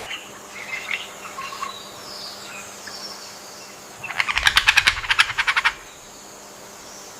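A frog calling in a rapid pulsed rattle that lasts about a second and a half, midway through, over rainforest ambience with faint bird chirps early on.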